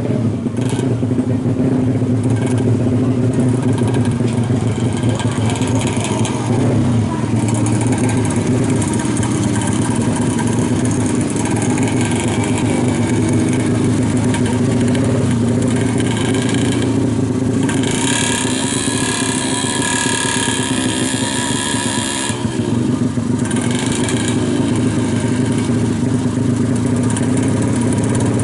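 The two-stroke engine of a Yamaha F1ZR tuned to 120cc running steadily, with a brighter, hissier high sound coming in from about 18 to 22 seconds in.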